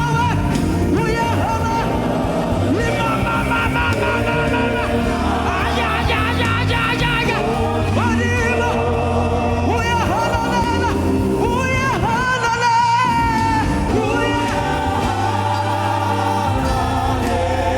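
Gospel worship music with singing over a steady band accompaniment and a sustained bass line.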